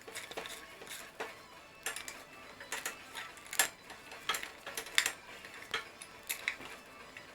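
Irregular sharp metallic clicks and clinks, about ten of them at uneven spacing, from hand tools and metal parts being handled during reassembly.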